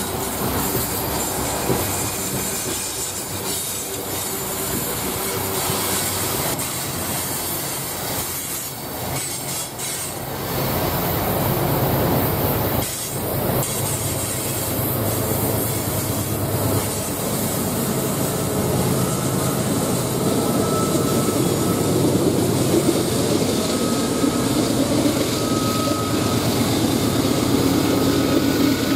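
Coal hopper cars of a long freight train rolling past on steel rails, a continuous clattering rumble of wheels with faint wheel squeal. It grows louder in the second half as diesel locomotives in the train draw near.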